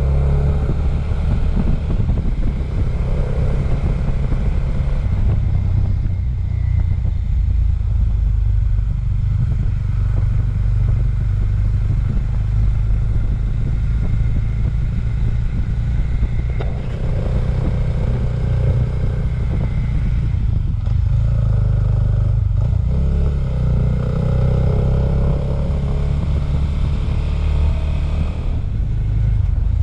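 Suzuki motorcycle's engine running under way. Its note shifts in pitch a few times, around six seconds in and again past twenty seconds, over steady riding noise.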